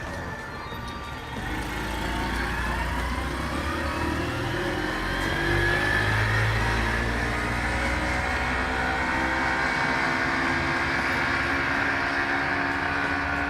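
A motor vehicle passing close by on the road. Its engine note rises over the first few seconds, and it is loudest around the middle.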